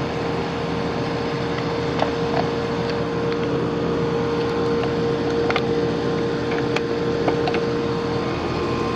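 Residential central air-conditioning condensing unit running: a steady hum with a held tone, with a few faint light clicks.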